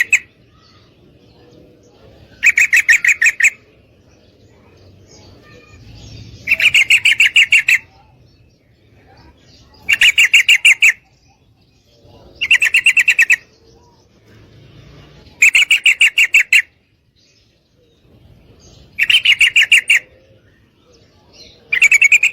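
Female yellow-vented bulbul (trucukan) giving rapid chattering call phrases, each about a second long, repeated at even spacing roughly every three seconds, about seven times.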